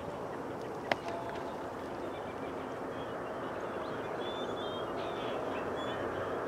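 A steady, distant rumble that slowly grows louder as an Amtrak ACS-64 electric locomotive's train approaches, with one sharp click about a second in and faint bird calls in the middle.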